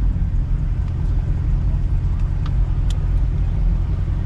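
A car running steadily: a low, even rumble with a few faint ticks and no revving.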